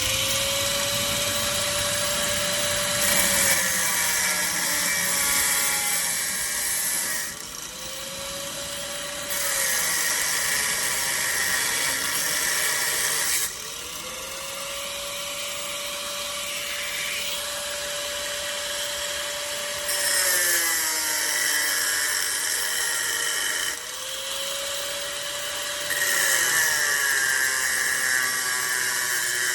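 Angle grinder with a cut-off wheel cutting sheet-steel floor-pan panel in four passes of a few seconds each. The motor's high whine runs steadily, sags briefly and recovers between cuts, and harsh grinding noise rises during each pass.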